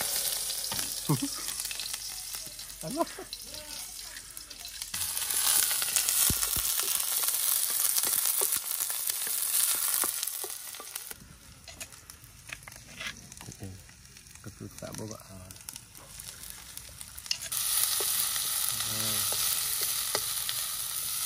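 Curry ingredients sizzling and frying in a wok on a clay stove, with a wooden spatula scraping and knocking as they are stirred. The sizzle swells about five seconds in, dies down around the middle, and comes back louder near the end.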